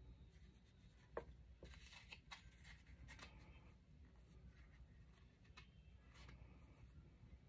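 Faint rustling and small ticks of a paper tag and string being handled as the string is threaded through the tag's hole, with one sharper tick about a second in.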